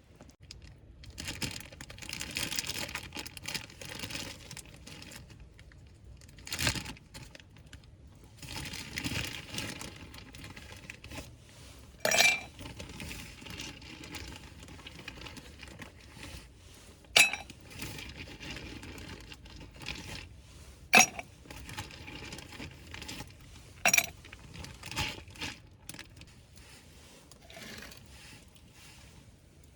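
Rustling and crinkling, as of camp gear or packaging being handled, with four sharp clinks of hard items such as cookware or glass knocking together, spread through the stretch.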